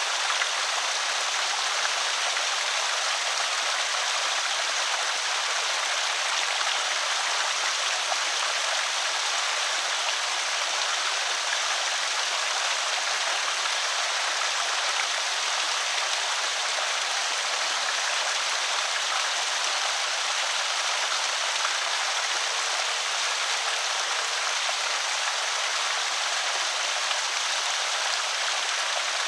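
Water pouring steadily over a small creek spillway, a constant, even rush and splash without change.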